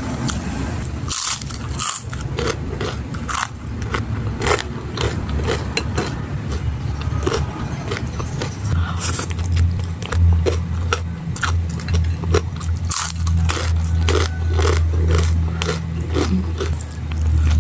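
Close-up eating sounds: chewing and crunching of crispy fried tempe and other food, with many short crisp clicks and scrapes. A low steady hum runs underneath and grows louder from about nine seconds in.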